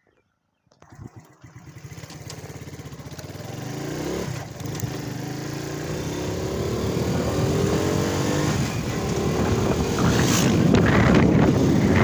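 Crown HD Plus 70cc motorcycle's single-cylinder four-stroke engine running under way. It comes in suddenly about a second in and rises in pitch as the bike accelerates, with wind on the microphone growing louder toward the end.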